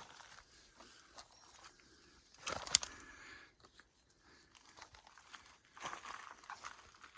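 Faint rustling and crinkling, with a short, louder crunch about two and a half seconds in and another spell of rustling near six seconds.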